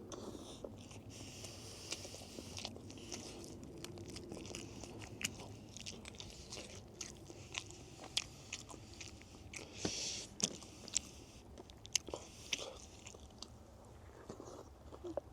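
Close-up mouth sounds of someone eating: biting and chewing, with many short, irregular crunchy clicks.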